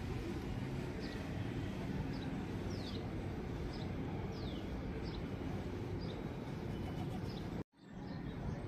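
Steady outdoor background noise with a small bird's short, falling, high chirps repeating about once a second. The sound cuts out completely for a moment near the end.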